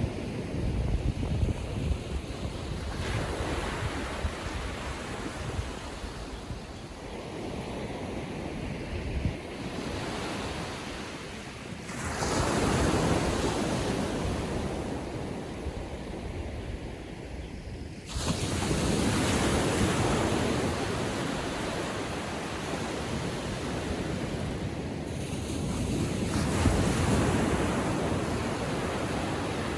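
Small ocean waves breaking and washing up a sandy beach, a steady surf rush that swells suddenly with each wave, about four times, and ebbs between them.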